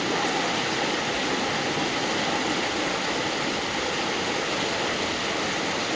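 Steady rush of heavy rain and running water: an even, unbroken noise with no breaks.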